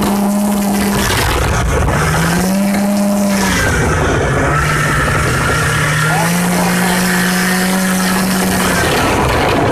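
Vehicle engine running under way, its revs rising and falling several times, with a steady rush of noise underneath.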